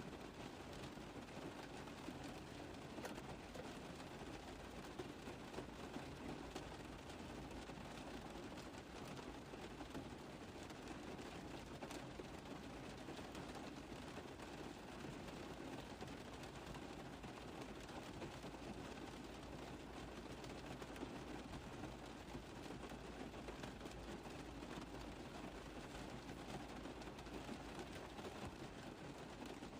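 Steady rain tapping on a car roof, a dense even patter of many small drop hits with no let-up.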